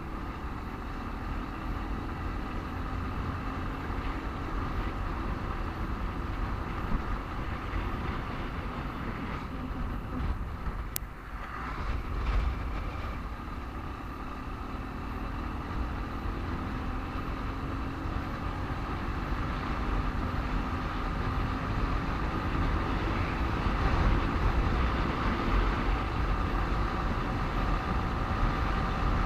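Motorcycle engine running while riding in road traffic, with a heavy low rumble and the engine note slowly rising and falling. A sharp click comes about eleven seconds in, and the sound grows louder over the second half.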